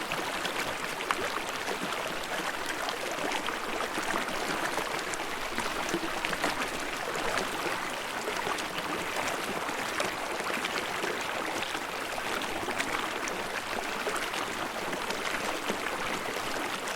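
Steady babbling and splashing of a small stream running over rocks, a dense continuous wash of water dotted with many small splashes.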